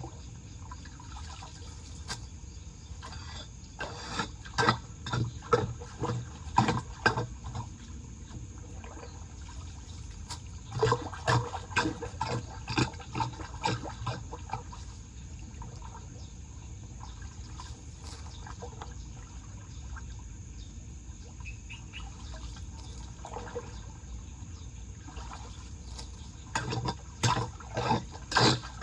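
Floodwater draining into a street storm drain, with clusters of short splashes every half second or so, about four seconds in, again around eleven seconds and near the end.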